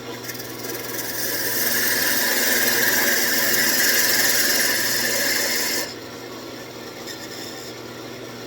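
Wood lathe running with a steady hum while a turning tool cuts into the spinning walnut blank, a loud scraping cut that builds over the first two seconds and stops abruptly about six seconds in, leaving the lathe running on its own.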